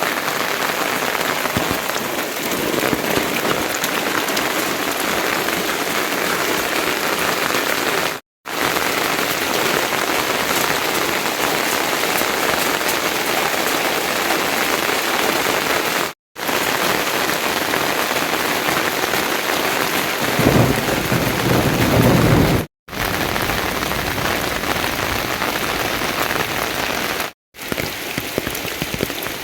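Steady rain falling as an even hiss, broken by a few brief silent gaps. For about two seconds past the middle, a deeper, louder rumble swells under it.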